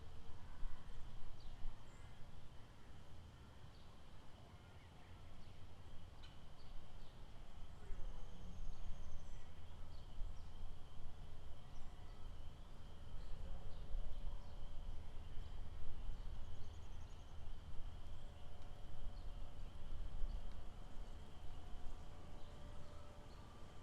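Outdoor lakeside ambience: a steady high insect drone with many short bird chirps and a few faint held calls, over a constant low rumble.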